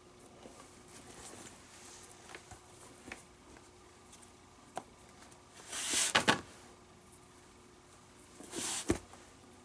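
Handling noises from working on a leather baseball glove during relacing: faint small rustles, then two brief scraping bursts with sharp clicks, the louder about six seconds in and a shorter one near the end.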